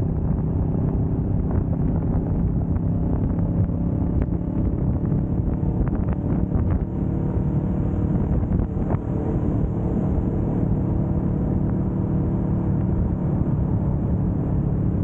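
2025 Kawasaki Vulcan S 650's parallel-twin engine running at a steady cruise, holding an even pitch throughout.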